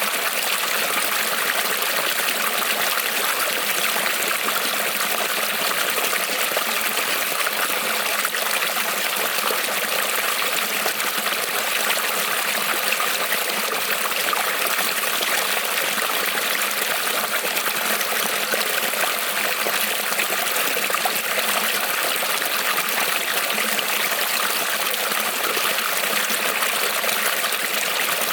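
Small creek rippling and trickling over stones, a steady, even flow of water.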